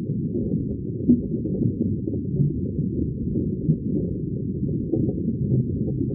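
Muffled underwater ambience: a dense, low bubbling rumble with only the deep sounds left, dotted with small bubble pops, the loudest about a second in and near the middle.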